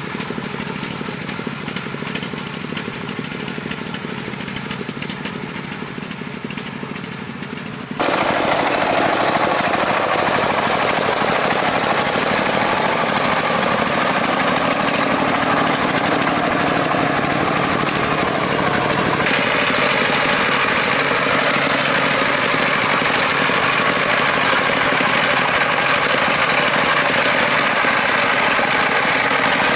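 Farm truck's engine running steadily. It jumps louder about 8 s in, and its sound changes again about 19 s in.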